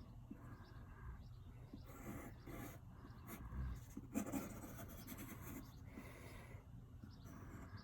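Quick, irregular scratchy strokes of a pen drawing on paper, a bald eagle sketched in ten seconds.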